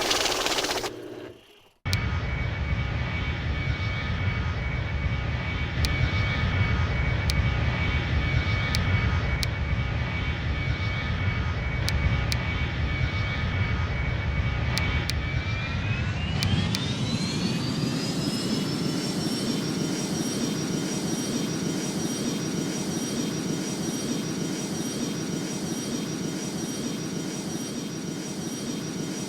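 Airbus A310 jet engines running with a steady whine, then spooling up about halfway through: the whine climbs sharply in pitch and holds high as takeoff thrust is set.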